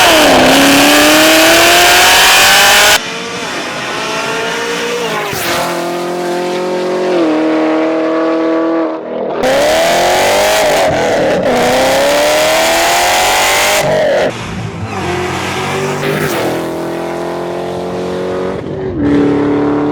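Supercharged 6.2-litre V8s of Chevrolet Camaro ZL1s with long-tube headers, revving in a string of short cut-together clips. The engine note climbs and falls with each blip, and there are two especially loud stretches with abrupt cuts between clips.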